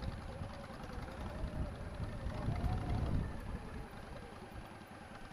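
Motorcycle engine running at low speed during a slow cone-course manoeuvre, over a low rumble. Its pitch wavers and rises briefly about two and a half seconds in as the throttle opens.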